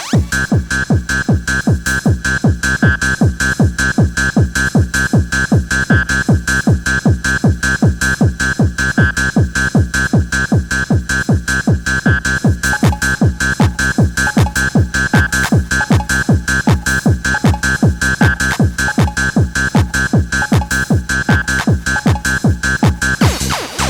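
Fast bouncy techno/hardcore music: a steady kick drum at about three beats a second under a repeating high synth riff, with a brief drop in the beat near the end.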